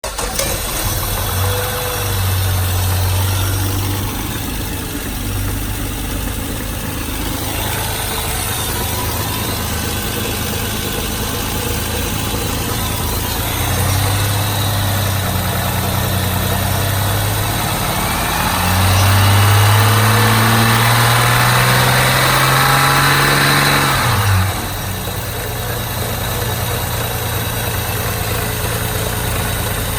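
Nissan TB42 4.2-litre straight-six petrol engine from a GQ Patrol running, idling between revs. The throttle is raised twice for a few seconds each, then held for a longer rev that climbs steadily for about five seconds before dropping suddenly back to a steady idle.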